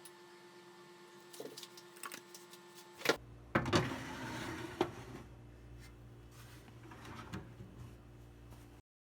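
A few small clicks over a faint steady hum, then a sharp click about three seconds in after which a low steady hum starts, with louder rustling and knocks for a couple of seconds. The sound cuts off abruptly near the end.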